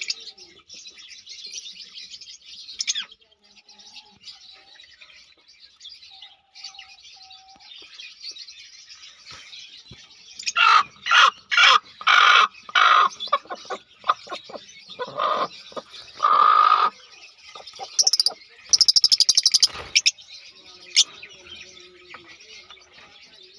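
Birds chirping steadily, with a run of much louder calls from about ten to seventeen seconds in and a fast, high trill of rapid pulses about nineteen seconds in.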